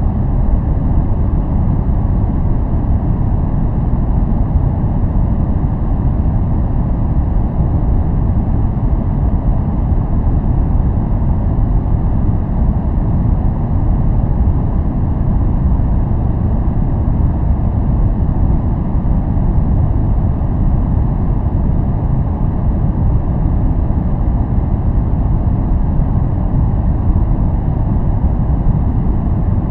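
Steady noise for relaxation and focus, deep and even with no changes, its energy mostly in the low end like brown noise rather than hissy white noise.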